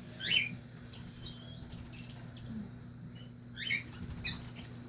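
Small pet birds chirping: quick rising chirps about a third of a second in and twice more near the end, with fainter high ticks between, over a low steady hum.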